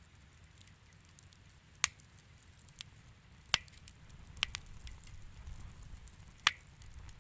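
Wood fire in a fireplace crackling, with several sharp pops: loud ones about two seconds in, midway, and near the end, and smaller ticks between, over a low steady rumble of the burning fire.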